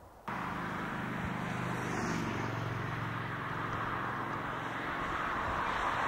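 NS VIRM double-deck electric train passing at speed: a steady rushing of wheels on rail with a low hum, getting louder near the end. The sound starts abruptly about a quarter second in.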